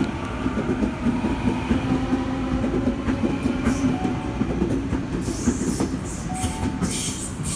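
Sydney Trains B-set electric train pulling out of the platform, its wheels clicking over the rail joints with a steady electric motor hum that fades about four seconds in. Short bursts of hiss come near the end.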